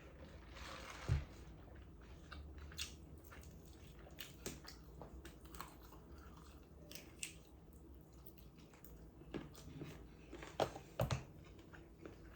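A person chewing and biting into KFC food close to the microphone, with crunchy bites and scattered mouth clicks. A few sharper knocks stand out, the loudest about a second in and two more near the end.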